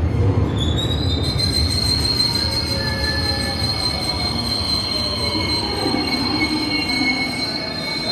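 Wheels of a 521 series electric train squealing against the rail as it moves: a high, thin, steady squeal starts about half a second in with a brief upward slide and holds over a steady running rumble.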